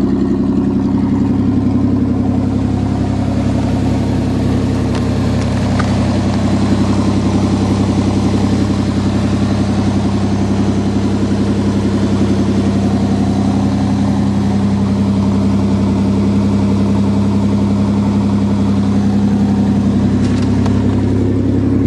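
Ford truck's 2.9-litre V6 engine idling steadily just after a cold start, running evenly throughout.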